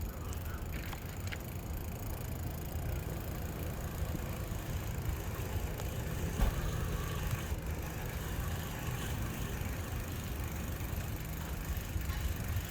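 Steady low rumble of background noise with no clear events, and one faint sharp click about six and a half seconds in.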